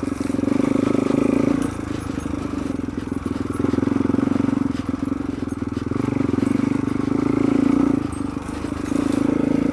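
Suzuki DR-Z400 single-cylinder four-stroke engine running on the move, its steady note getting louder and quieter several times as the throttle opens and eases off.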